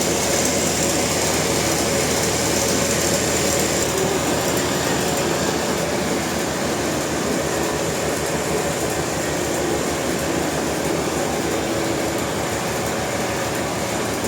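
Sawmill machinery running steadily: a constant loud mechanical noise with a steady high whine over it.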